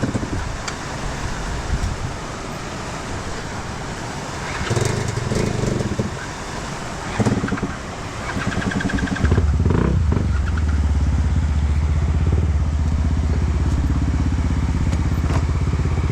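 Trail motorcycle engine running, uneven and changing in pitch for the first several seconds, then settling into a steady, louder note from about nine seconds in.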